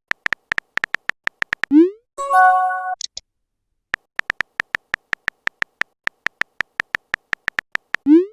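Phone keyboard typing clicks, rapid and evenly spaced, broken by a rising swoop and a short chiming message tone about two seconds in; after a brief pause the typing clicks resume for about four seconds, and another rising swoop comes near the end.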